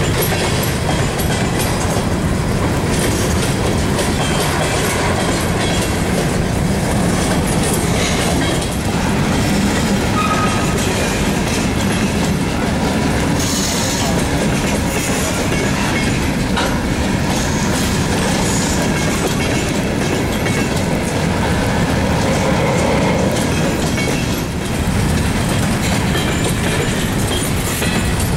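Freight train of covered hopper cars rolling past close by: a steady rumble and clatter of steel wheels on the rails.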